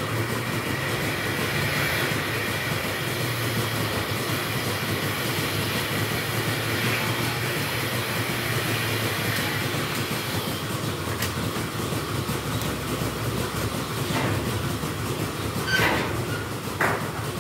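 Milking-shed machinery running steadily, a continuous mechanical rumble and clatter. Two short sharp sounds cut in near the end.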